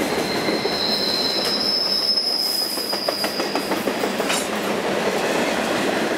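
Freight train boxcars rolling past on steel rails, a steady rumble with scattered wheel clicks, as the last cars of the train go by. A high, two-toned wheel squeal starts about half a second in and fades out near four seconds.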